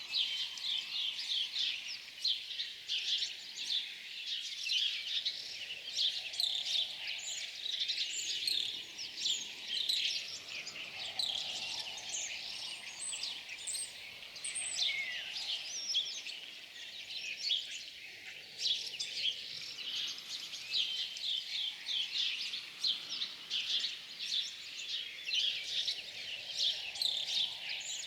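A dense chorus of many small birds chirping and twittering at once, a continuous stream of short high calls.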